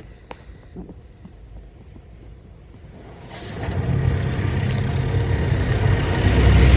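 Automatic tunnel car wash machinery, heard from inside the car: after a few quiet seconds with faint clicks, a low rumble and a broad noisy wash build up from about three seconds in and grow louder near the end.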